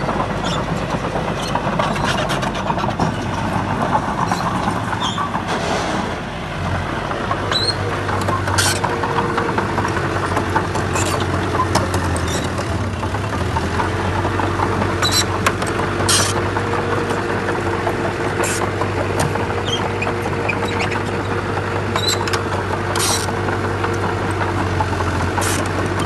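Heavy diesel earthmoving machinery running steadily, the engine note shifting slightly a few times, with scattered sharp knocks and clacks like stones striking.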